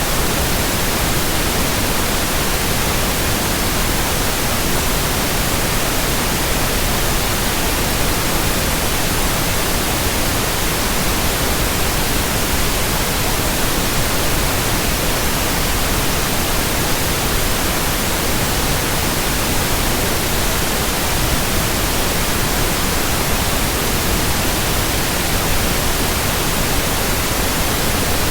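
Steady white-noise hiss, even across low and high pitches, with no hum, blade swish or rhythm, and no change throughout.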